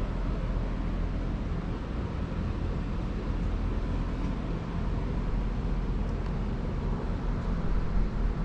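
Steady low rumble of background noise with a faint low hum.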